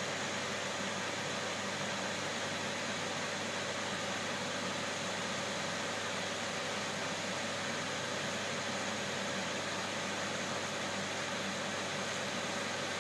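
Steady machine noise from a greenhouse engine: an even rushing hiss with a constant hum and a steady mid-pitched tone, unchanging in level.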